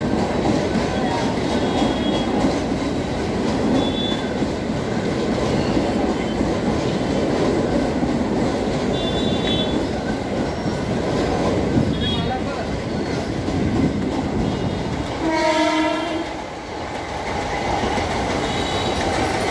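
Train running through a busy railway station with steady rail noise and a few brief high squeaks, and a short horn blast about fifteen seconds in.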